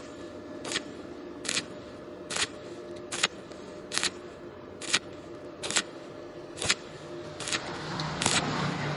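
Sharp clicks repeating at an even pace, about one every 0.85 seconds, over a faint steady hum.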